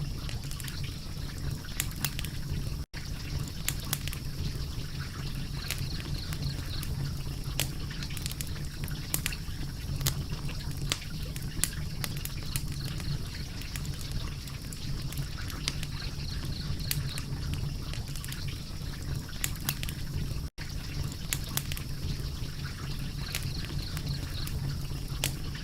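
Fire crackling steadily, with frequent sharp pops and snaps over a low, even rush. The sound cuts out for an instant twice.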